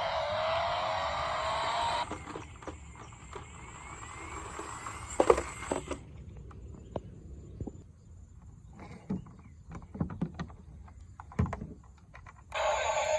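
An electronic toy sound with rising tones plays for about two seconds and stops, then scattered clicks and knocks of plastic toys being handled, and the electronic toy sound starts again near the end.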